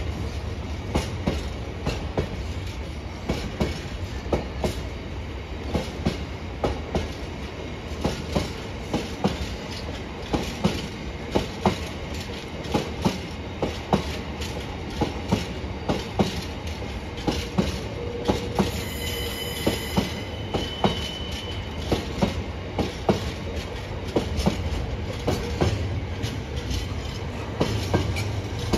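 Freight train's container flat wagons rolling past, their wheels clattering over rail joints in a long run of sharp knocks over a low rumble. A brief high-pitched wheel squeal comes in about two-thirds of the way through.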